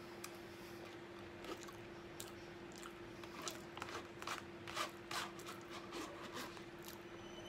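Close-up mouth sounds of a man chewing chickpeas with mayonnaise: a run of short wet clicks and smacks, thickest in the middle.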